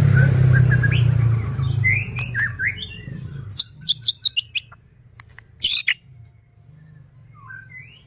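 White-rumped shama singing: quick whistled notes and short glides, then a run of sharp, rapid clicking notes (kretekan) from about three and a half to six seconds in. A low rumbling noise underlies the first few seconds and fades away.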